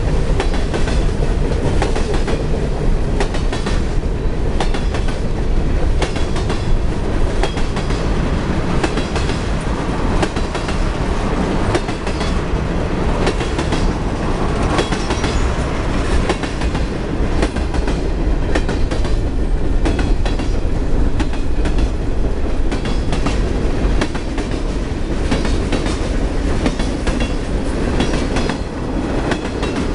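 CSX freight train of covered hoppers and tank cars rolling past close by. The wheels give a loud, steady rumble, with a constant run of clicks as they cross the rail joints.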